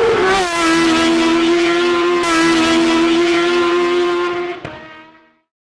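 An engine held at high revs: its pitch dips slightly at first, then stays level for about four seconds before fading out.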